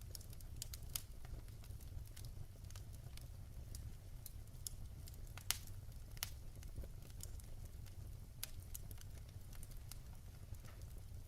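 Wood fire crackling in a fireplace: irregular sharp pops and snaps over a low, steady rumble, with one louder pop about halfway through.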